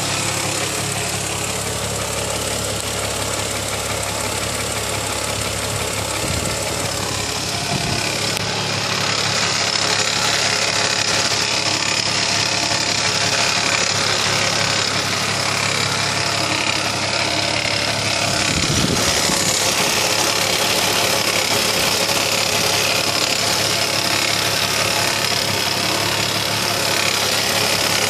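Chrysler Crossfire's 3.2-litre V6 idling steadily, with a whine and a ticking, tapping noise over the running of the engine that the owner finds annoying.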